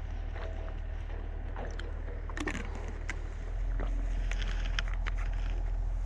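Chainsaw engine idling steadily, growing louder a little past halfway, with scattered sharp clicks and snaps.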